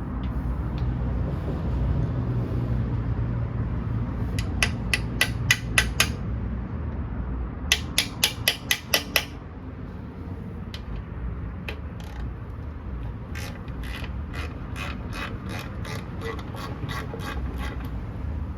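Hand socket ratchet clicking in short runs as bolts are worked loose, with a faster, longer run of clicks in the second half. A low steady hum sits under the first few seconds.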